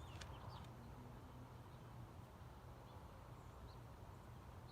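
Near silence: a low steady rumble with a few faint, short bird chirps, most of them in the first moment.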